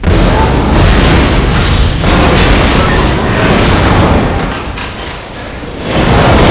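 Film sound effect of a large explosion: a sudden loud blast, then a sustained rumbling blast-wave that eases near five seconds in and surges again about a second later.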